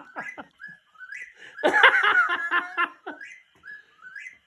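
Whip-poor-will calls repeated in a steady series: short whistled phrases, each rising at its end, about one and a half a second. A louder, fuller burst of sound comes in about two seconds in and lasts about a second.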